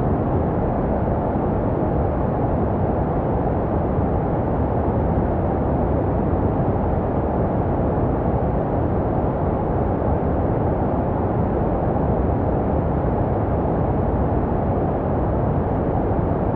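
Steady, unbroken white noise for baby sleep, deep and rumbly with most of its weight low and little hiss on top, meant to resemble the sound heard in the womb.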